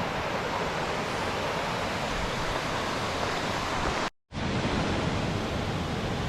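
Steady rushing of a large waterfall, an even wash of water noise that drops out for an instant about four seconds in.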